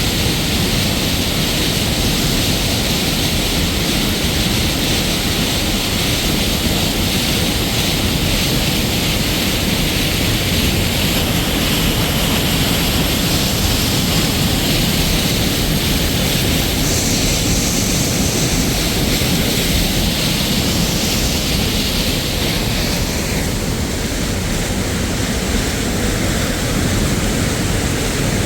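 Loud, steady rushing of falling water, as from a tall waterfall, with no break.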